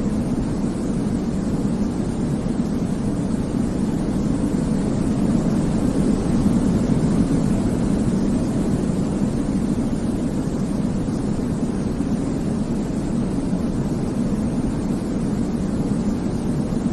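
Continuous white-noise sleep sound, a deep, even rumble with most of its weight low in pitch. It swells slightly for a few seconds about a third of the way in.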